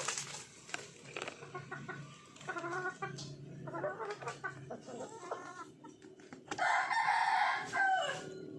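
Chickens clucking in short calls, then a rooster crows loudly for about a second and a half near the end, the crow trailing off in a falling note.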